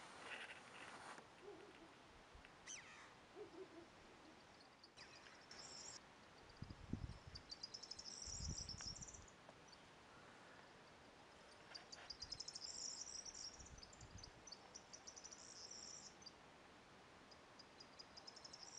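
Northern wheatear singing faintly: several bouts of rapid, scratchy, high-pitched chattering phrases, broken by short pauses. A couple of low rumbles come in the middle.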